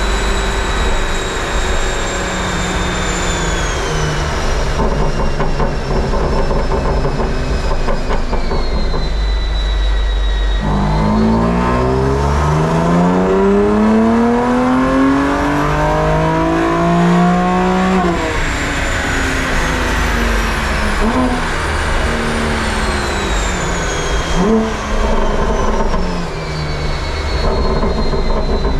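BMW M2 Competition's twin-turbo straight-six on a dyno, breathing through an equal-length resonated midpipe and downpipes. A high whine falls as it coasts down, then about ten seconds in a pull begins and the engine note climbs steadily for about eight seconds before the throttle closes. It winds down again with a few short blips.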